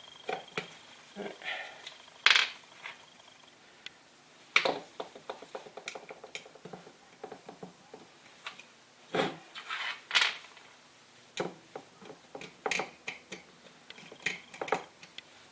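Small metal hand tools and screwdriver bits clinking and clattering as they are picked up, tried and set down, a string of light clicks with several louder knocks.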